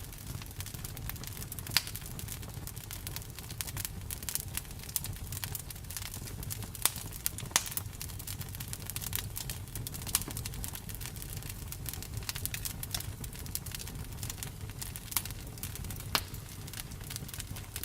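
Campfire crackling: a steady patter of small crackles with a handful of sharper, louder pops, over a low steady rumble.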